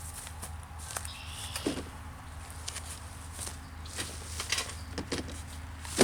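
Irregular snaps, cracks and rustles of sticks and dead leaf litter being handled while clearing a campsite, over a steady low hum.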